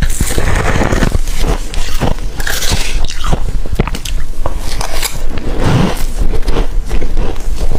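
Close-up biting and chewing of humidifier frost, a rapid string of crisp crunches.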